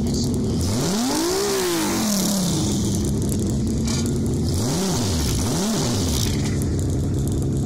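Car engine revved hard three times during a burnout: one long rev climbing and falling back about a second in, then two quick blips around the five- and six-second marks. Between them it runs at a steady rumble.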